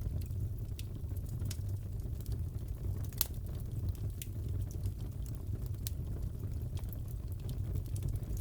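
Crackling fireplace: a steady low rumble of burning with scattered sharp crackles and pops, the loudest about three seconds in.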